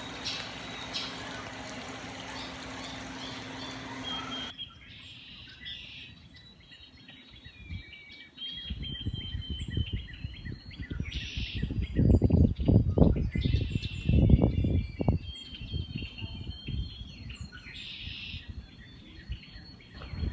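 Small birds chirping and calling repeatedly over a low rumbling noise that swells loudest around the middle. It opens with a few seconds of steady hiss and hum that cuts off suddenly.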